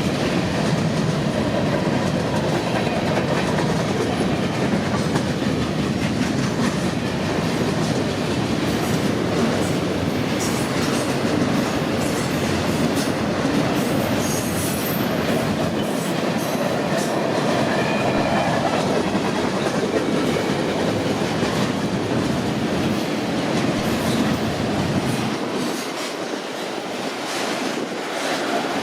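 Freight train cars rolling past on the rails: a steady rumble with wheel clatter and faint, brief wheel squeals. The low rumble eases near the end.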